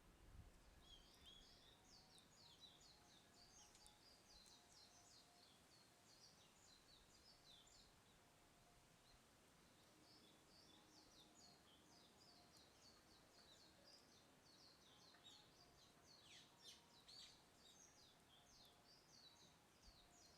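Faint bird song: rapid runs of short, high chirps in two long bouts, the first fading out about eight seconds in and the second starting again about two seconds later.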